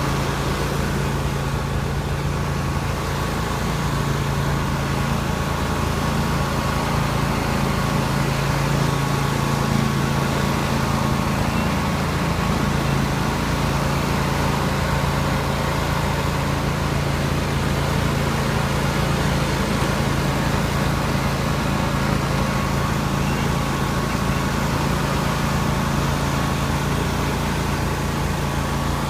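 Riding lawn mower's small engine running at a steady speed as the mower is driven along.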